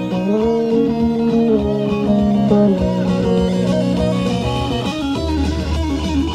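Guitar music played back from a Tascam Portastudio 414 MKII cassette multitrack through its newly resoldered output jacks: a lead guitar with held notes, one bent upward near the start, over a bass line that comes in about five seconds in. Clean, steady playback shows the repaired outputs now pass signal.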